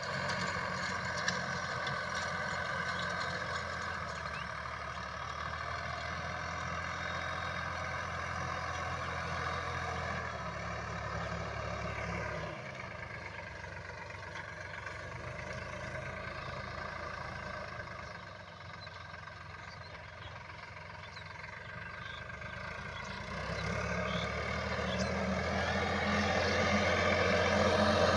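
Tractor engine running steadily while plowing dry land. It grows fainter through the middle and then louder again toward the end.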